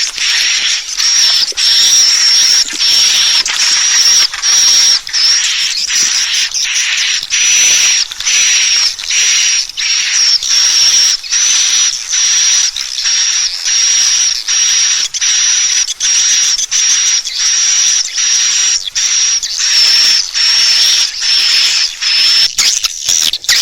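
Swiftlet lure call: rapid, repeated high chirping of swiftlets, about two chirps a second, each a hissy buzz with a steady high whistle on top. This is the kind of call played from speakers in swiftlet houses to attract birds to roost and nest.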